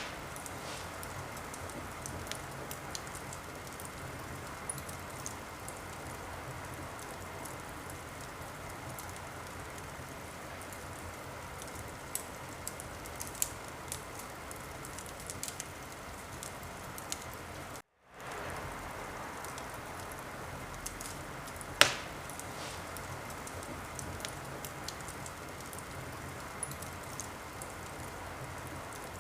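Wood fire crackling steadily, with scattered small snaps and one louder pop about three quarters of the way through. The sound cuts out for a moment just past the middle.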